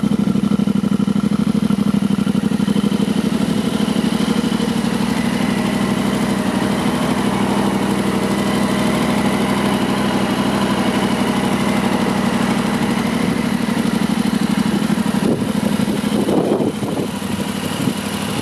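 Yamaha Ténéré 700's 689 cc parallel-twin engine idling steadily with an even pulse. A couple of brief knocks come near the end.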